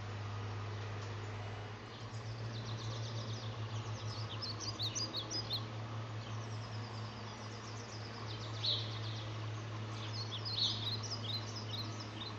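Small birds chirping in short, quick notes, in clusters, over a steady low hum. The hum throbs for a few seconds after about two seconds in.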